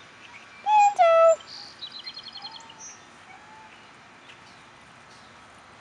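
Birds calling: two loud, slightly falling notes about a second in, then a quick high trill.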